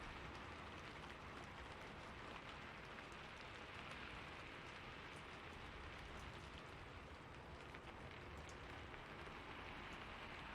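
Steady rain: a soft, even hiss with faint scattered drop ticks.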